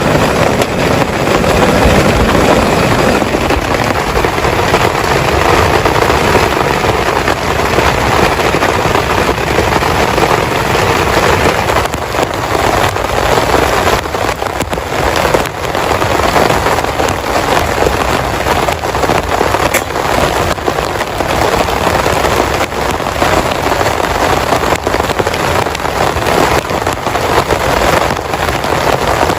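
Heavy rain pouring steadily, a dense crackling patter of many drops.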